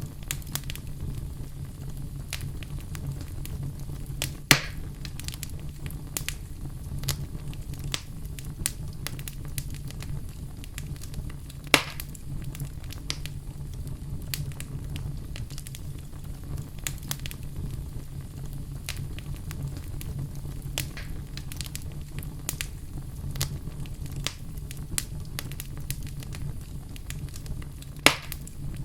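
Fire burning in a fireplace: a steady low rumble of flames with frequent small crackles, and three louder pops, about four seconds in, about twelve seconds in and near the end.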